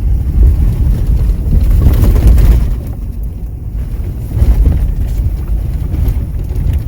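Low, steady rumble of a vehicle driving over a rough snowy dirt road, heard from inside the cab, easing briefly about three seconds in.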